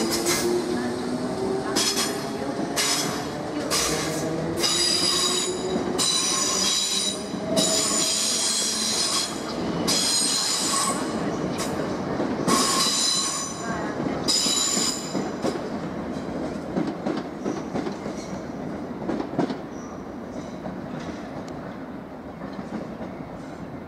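South West Trains Class 455 electric multiple unit running on the curved track, its wheels squealing in repeated high-pitched screeches roughly once a second, with a low motor whine rising in pitch at the start. The squeal stops about two-thirds of the way through and the train's running noise fades away.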